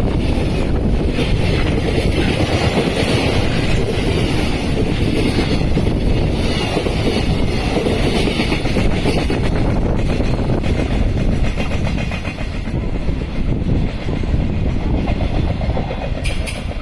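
Freight train passing at speed, its wheels running over the rails in a loud, steady rumble that eases slightly near the end.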